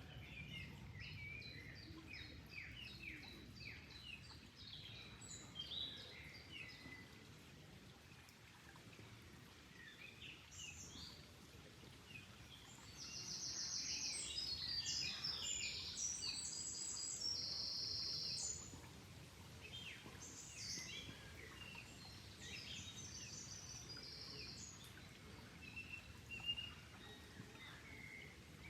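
Several birds chirping and singing over a low, steady rush of flowing water. Around the middle, a dense, high-pitched song grows louder and holds for about five seconds before breaking off.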